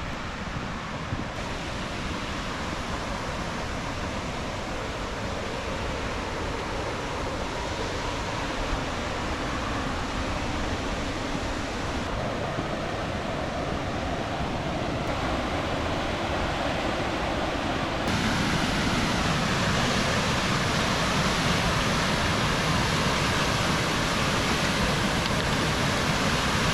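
High Falls of the Baptism River rushing, a steady roar of falling water that grows louder as it is approached, stepping up about 18 seconds in.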